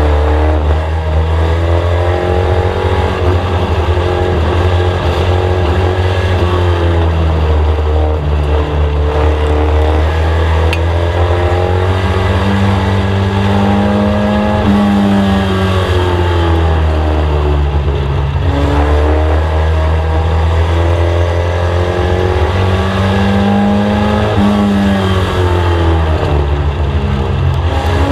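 Mk1 VW Scirocco's four-cylinder engine heard from inside the car at racing speed, revs climbing and dropping in a repeating cycle about every twelve seconds as it accelerates down the straights and lifts for the turns of an oval.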